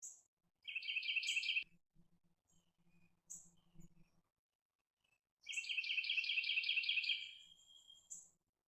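Songbirds singing: two fast, even trills of repeated notes, a short one about a second in and a longer one past the middle, with brief high chips between them.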